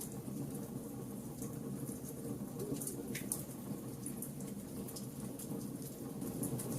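Wood fire burning: a steady low rush of flames with scattered sharp crackles and small pops from the burning wood, one stronger pop about three seconds in.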